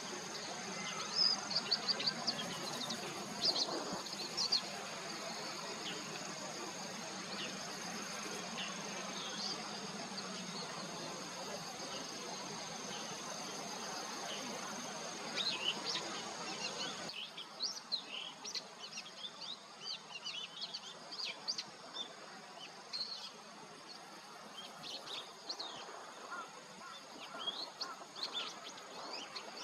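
Small birds chirping with many short, high chirps over a steady high insect-like drone. The low background noise drops away about halfway through.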